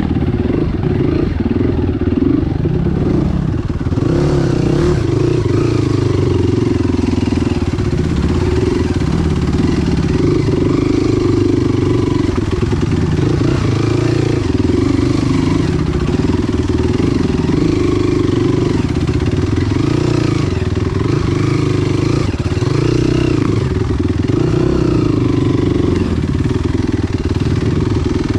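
Enduro motorcycle engine running hard on a ride, its pitch rising and falling over and over as the throttle opens and closes.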